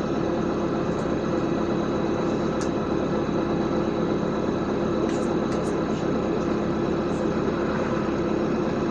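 LiAZ 5292 city bus heard from inside the passenger cabin: steady engine and running noise with a low hum, and a few light clicks and rattles.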